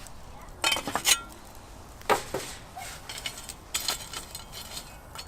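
Sharp clanks and knocks of metal cookware being handled, in three short clusters: about a second in, around two seconds and near four seconds. One clank rings briefly.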